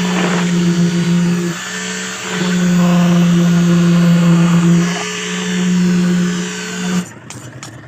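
A motor-driven power tool running at a steady pitch, easing off briefly twice as its load changes, then cutting off abruptly near the end, leaving a quieter rattle.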